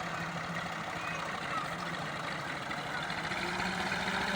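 Massey Ferguson 240 tractor's diesel engine running steadily, its note edging up slightly near the end.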